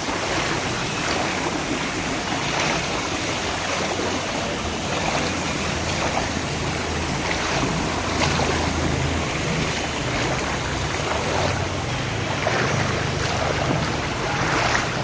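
Floodwater sloshing and splashing in a waterlogged street, in repeated surges. A low motor hum joins for several seconds in the middle.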